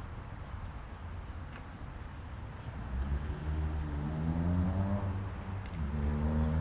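A motor vehicle's engine pulling away over steady street noise: it comes up about three seconds in, its pitch climbs, drops sharply near the end as it shifts gear, then climbs again.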